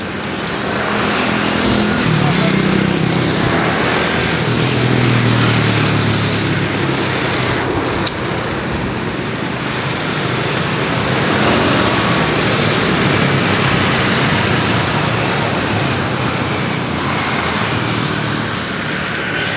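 Boeing 747-8's jet engines roaring steadily as the jumbo jet lands and passes, with a low drone in the first few seconds. A sharp click about eight seconds in.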